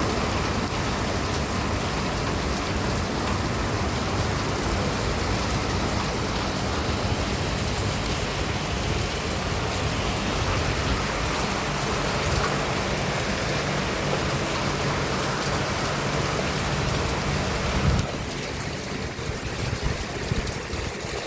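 Steady heavy rain falling, a dense even patter of drops. About 18 seconds in there is a single thump, and after it the rain sounds lighter and thinner.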